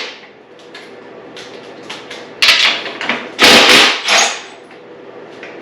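Metal knocks and scraping from a dirt bike's exhaust clamp and pipe being worked loose by hand, in a few loud bursts about two and a half and three and a half seconds in.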